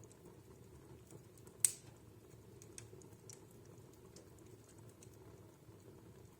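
Wood fire crackling in a fireplace: scattered small pops and snaps over a faint steady burn, with one sharp loud crack about one and a half seconds in.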